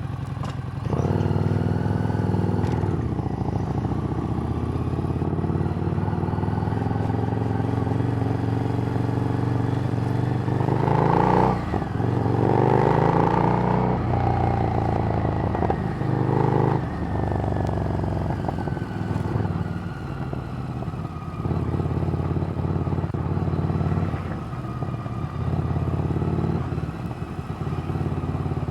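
Harley-Davidson Street Rod's 750 cc V-twin through a Screamin' Eagle exhaust, freshly started and running, with rising and falling revs about a third of the way in and again shortly after, then settling back to a steady lope.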